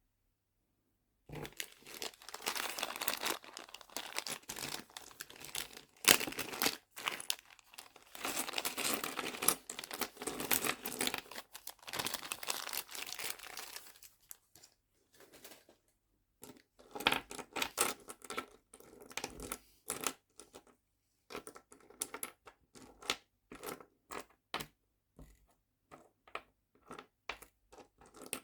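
Plastic packaging crinkling and rustling as nail charms are handled, for about twelve seconds. Then comes a run of separate small, sharp clicks and taps.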